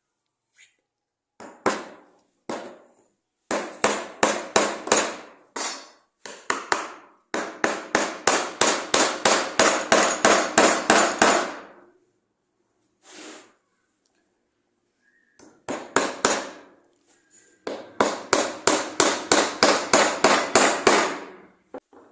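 Rapid hammering: several runs of blows at about four a second, each blow ringing briefly, with a few single strikes between the runs.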